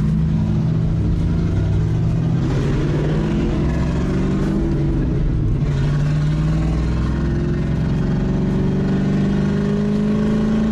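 1992 Camaro's 305 small-block V8, running on an Aces EFI Killshot throttle-body injection unit, pulling as the car accelerates from inside the cabin. The engine note climbs slowly in pitch, dropping at gear changes a couple of seconds in and again at the very end.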